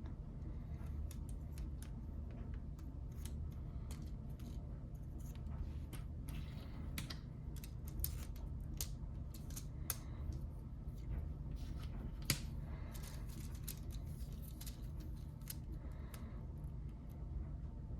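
Lego bricks being handled and pressed together: many small, irregular plastic clicks and rattles, with one sharper click about twelve seconds in, over a steady low hum.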